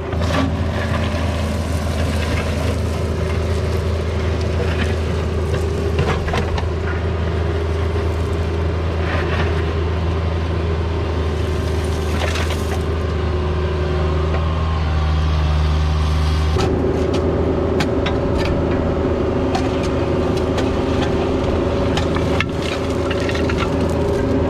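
Mini excavator's diesel engine running steadily while digging, with scattered knocks and scrapes through it. About two-thirds of the way in, the engine note changes: the deep drone drops away and a higher hum takes over.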